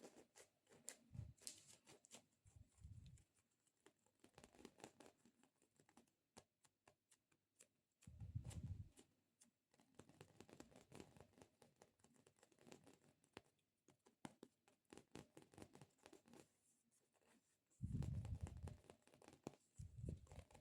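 Fingers tapping, pressing and peeling off a sticky squishy stress-relief toy: quiet, irregular sticky clicks and crackles, with a few soft low thumps, the strongest about 8 seconds in and near the end.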